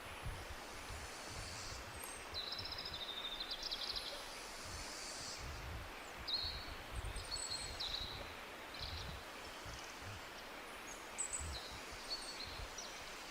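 Wild birds chirping and trilling in a few short spells, about two seconds in, around six to eight seconds, and near the end, over a steady outdoor hiss with a low, uneven rumble.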